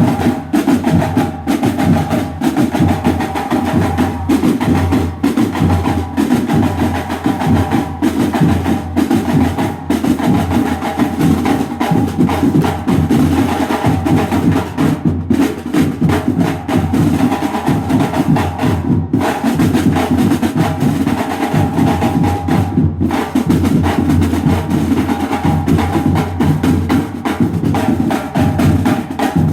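Banda de guerra marching band playing: snare drums beat a fast, dense cadence with a bass drum underneath, and a steady held tone comes and goes over the drumming.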